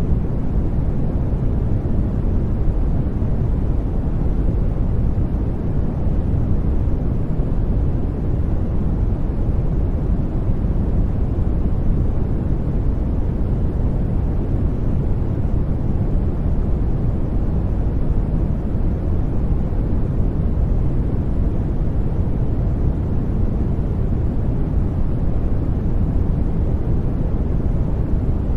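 Steady sleep white-noise track, a constant even hiss weighted toward the low end like a deep rumble, with no changes or breaks.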